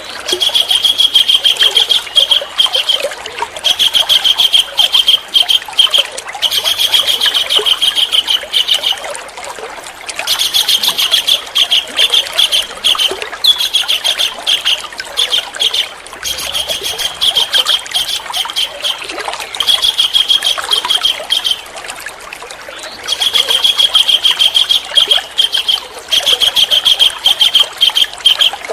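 A songbird singing in bouts of fast, rapidly repeated high notes, each bout lasting one to three seconds with short pauses between, about ten bouts in all, over a steady trickle of running water.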